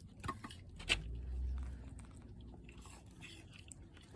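Radiated tortoises biting and chewing persimmon, with two sharp bites, the louder just under a second in, followed by a low rumble lasting about a second.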